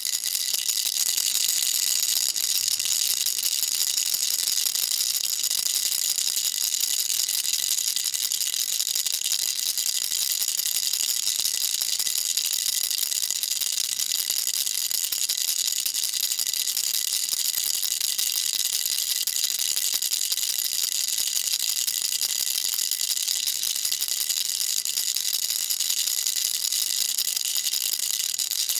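Baby rattle shaken continuously: a dense, steady, high-pitched rattling of small beads with no pauses.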